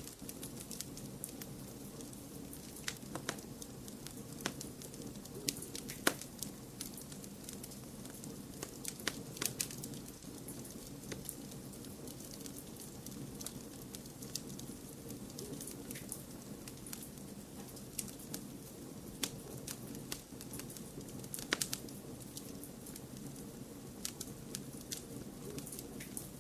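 Wood fire crackling in a fireplace: irregular sharp pops and snaps, a few louder than the rest, over a steady low rush of noise.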